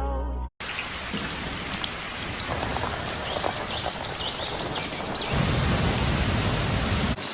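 Steady rain falling, with a low thunder rumble swelling from about five seconds in. A run of short high chirps sounds in the middle.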